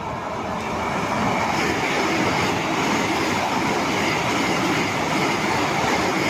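Vande Bharat electric train running past a platform. The rush of its wheels and air grows louder over the first second as it closes in, then holds steady while the coaches go by, with a faint high whine running through it.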